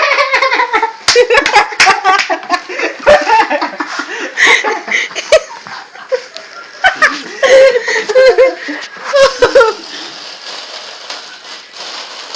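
Several people laughing and giggling in bursts, with scattered sharp clicks and knocks; the laughter dies down over the last few seconds.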